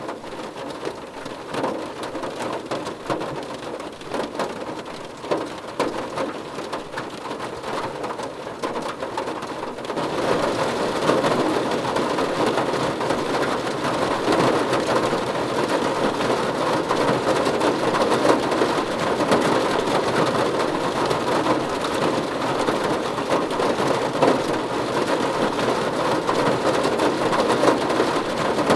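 Steady rain falling, with individual drops pattering distinctly at first; about ten seconds in it steps up abruptly to heavier, denser rain that stays even.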